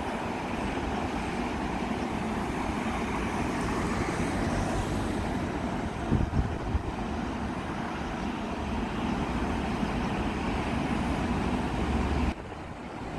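Long electric commuter train running past on the rails, a steady rumble of wheels on track, with a few wind buffets on the microphone about six seconds in. The sound drops off suddenly near the end.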